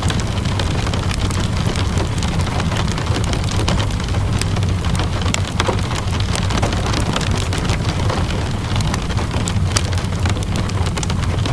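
Steady rainfall mixed with a crackling wood fire: an even hiss of rain over a steady low rumble, with frequent small, sharp pops and crackles scattered throughout.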